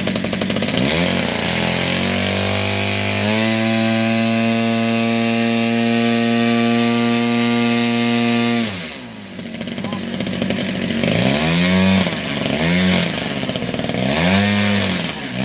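Large RC model airplane engine revving up from idle about a second in and held at high throttle for about five seconds, then cut back to idle. Near the end it is blipped up and down four times in quick succession.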